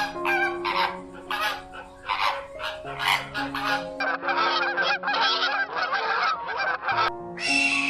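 Farm waterfowl calling over and over in short honking calls that crowd together into rapid chatter about halfway through, over background music with held notes. Near the end a different, higher animal call begins.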